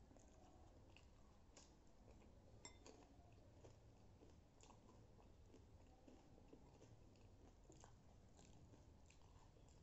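Faint chewing and crunching of a mouthful of pani puri, crisp fried puri shells with curd topping, heard as irregular small crackles and clicks. One sharper click comes nearly three seconds in.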